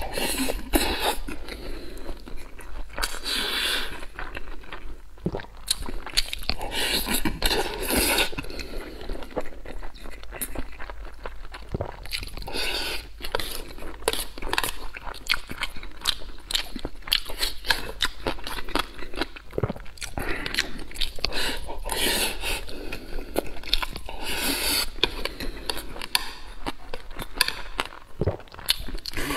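Close-miked mouth sounds of a person eating purple mixed-grain rice: biting, chewing and wet smacking, with chopsticks and a spoon scraping and clicking on a metal tray.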